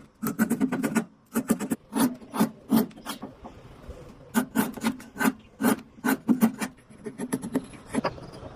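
Repeated quick back-and-forth rubbing strokes on the rusty whetstone during its restoration, coming in short runs with brief pauses.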